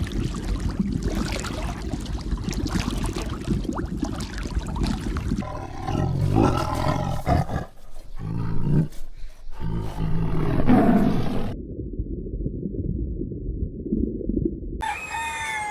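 Deep, low-pitched calls of a large animal, with loud peaks about six and ten seconds in.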